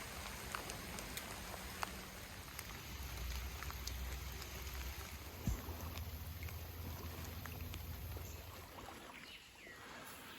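Stream water running steadily, with scattered light ticks and a low rumble that swells about three seconds in and fades near the end.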